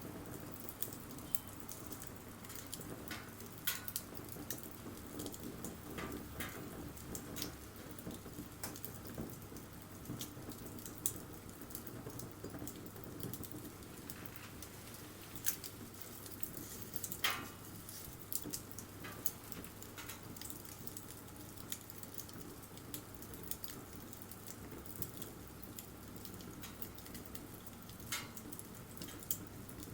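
Wood bonfire burning, crackling with irregular small snaps and a few louder pops over a low steady hiss of flame.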